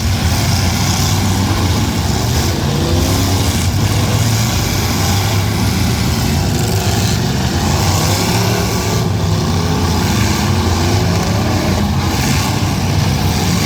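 Several V8 demolition-derby cars running together, engines revving up and down as they drive and ram in the arena.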